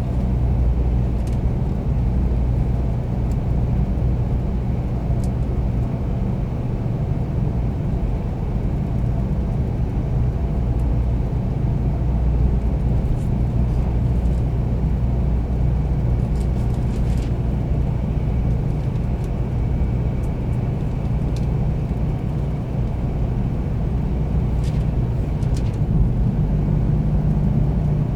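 Steady low rumble of a Shinkansen 300 series train running, heard inside the passenger car, with a few faint clicks.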